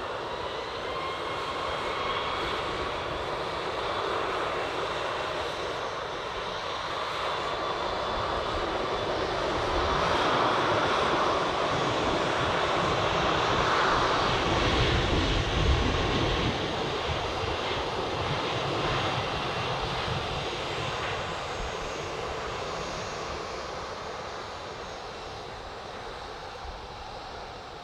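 A Boeing 737 MAX 8's CFM LEAP-1B jet engines at takeoff power. The rushing jet noise swells to a peak partway through as the airliner passes, then slowly fades as it moves away.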